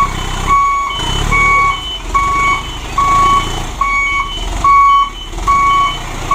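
Dump truck's reversing alarm beeping, one steady tone a little faster than once a second, over the low rumble of the truck's running engine.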